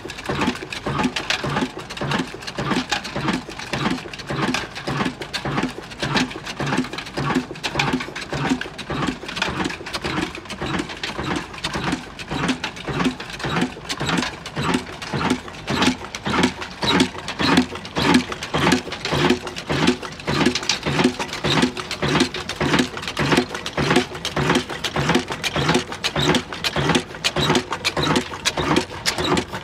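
Old Ruston Hornsby diesel engine running steadily at slow speed, its firing beats coming evenly at about two a second.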